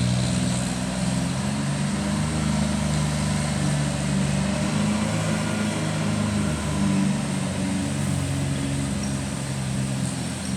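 An engine running steadily, its low hum shifting slightly in pitch.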